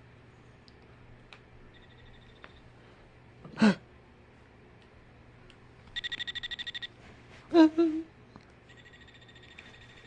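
Recorded bird calls played from Wild Republic Audubon plush birds' sound boxes: a short sweeping call, then a rapid even trill of about a dozen notes, then a loud call stepping downward, with a fainter trill near the end.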